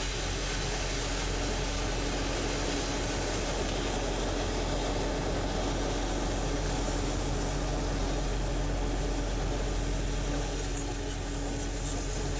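An engine running steadily under a dense, even rushing noise.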